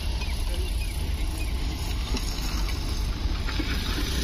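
Electric locomotive hauling a loaded coal rake as it approaches, a steady rumble, with wind buffeting the microphone.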